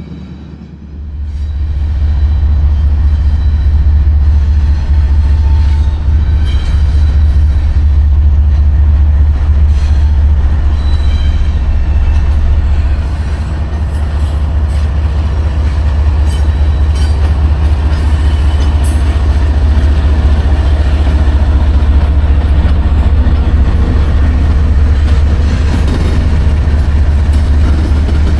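CN freight train rolling past close by: a loud, steady rumble of wheels on rail with short high wheel squeals. It comes in suddenly about a second in.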